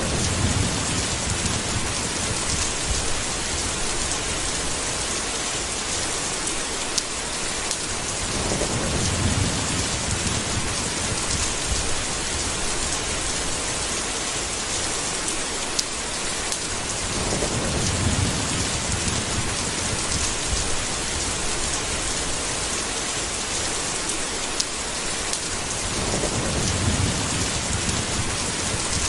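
Steady heavy rain with low thunder rolling in about every eight or nine seconds, four rumbles in all.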